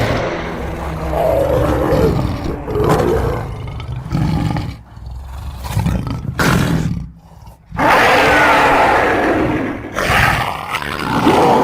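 Designed big-cat monster roars, layered from lion, tiger, leopard and sabre-tooth cat recordings: a run of roars that nearly drops out a little past halfway, then one long, loud roar in the last few seconds.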